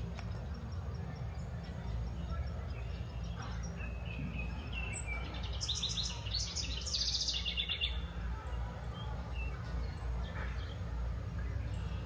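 Songbird singing outdoors: one loud, rapid run of repeated high notes about five seconds in, lasting about three seconds, with fainter chirps from other birds. A steady low rumble sits underneath.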